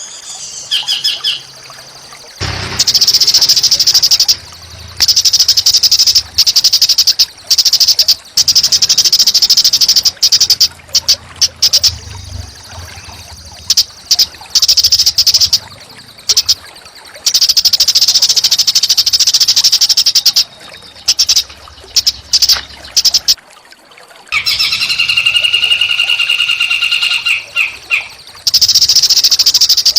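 Recorded songbird song for training caged birds: long, loud, harsh buzzing trills repeated with short breaks, and one clearer whistled phrase about three-quarters of the way through.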